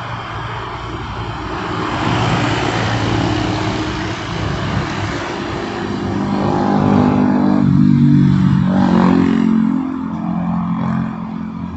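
A motor vehicle engine with road noise, growing louder about two seconds in and loudest around eight seconds before easing off.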